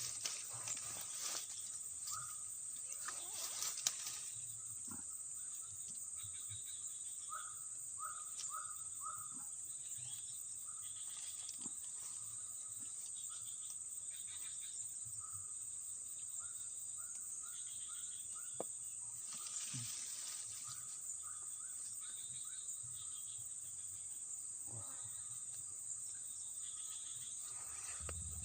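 Insects keeping up a steady high-pitched drone, with short runs of faint chirps from another small animal now and then and a few brief rustles.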